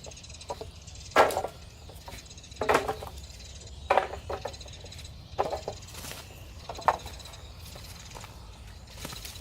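A series of sharp knocks at an even pace, about one every one and a half seconds, stopping about seven seconds in.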